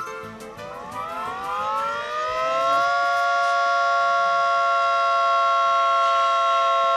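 Flood early-warning siren winding up, its several tones rising together in pitch for about two seconds, then sounding steadily at a fixed pitch.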